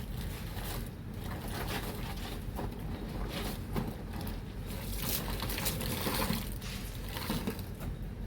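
Water sloshing and splashing in irregular strokes as laundry is worked by hand in a basin of soapy water.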